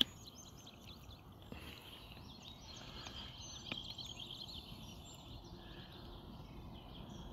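Faint outdoor ambience: small birds chirping in many short, quick high calls over a low steady background hiss.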